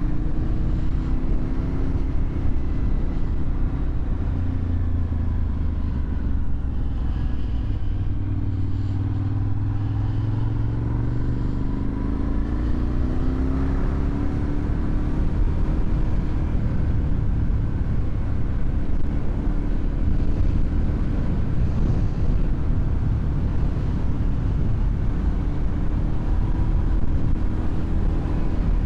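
2001 Suzuki TL1000R's V-twin engine running through a LeoVince aftermarket exhaust while riding, mostly steady, with the revs dipping a little and then climbing again around the middle.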